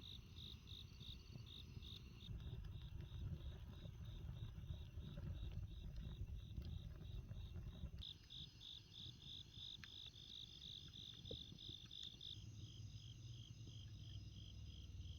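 Crickets chirping in a steady train, about four chirps a second, over a faint low rumble.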